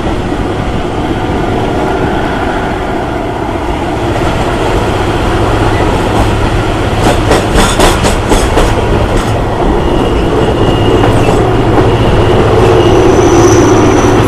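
Passenger train running on the track, heard from an open window, with a quick run of wheel clacks over rail joints a little past the middle. A thin high wheel squeal sounds in the last few seconds.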